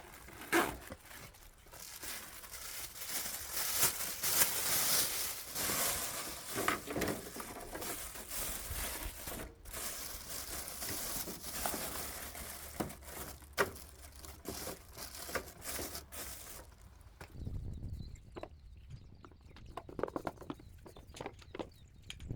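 Plastic garbage bag crinkling and rustling as it is fitted into a small metal trash can, with scattered light knocks. The rustling stops about three quarters of the way through, leaving a low rumble and a few soft knocks.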